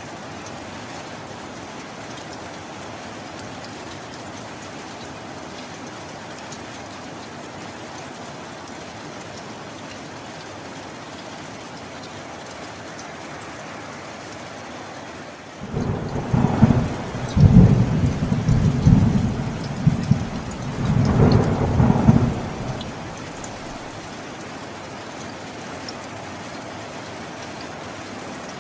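Steady rain falling, then about halfway through thunder breaks in suddenly and rumbles low for about seven seconds in two loud surges before fading back under the rain.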